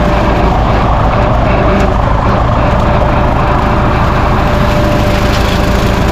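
Mahindra 1626 sub-compact tractor's diesel engine running steadily under work, with a thin steady whine over the rumble.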